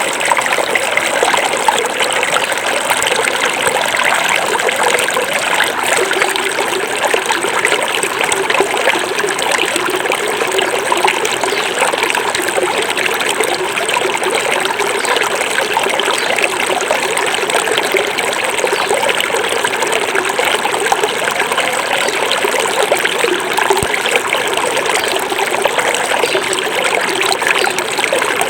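Small forest river flowing, a steady babbling and trickling of water over stones.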